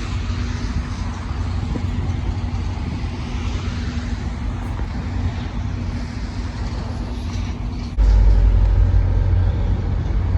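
NJ Transit train running, a steady mechanical hum over a rumbling noise; near the end it switches abruptly to a louder, deeper rumble.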